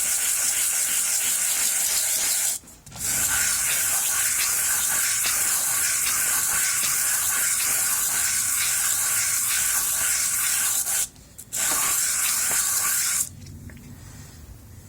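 Meat grinder plate rubbed by hand on wet 150-grit sandpaper over a marble slab, lapping it flat: a steady wet sanding sound. It breaks off briefly twice and stops near the end.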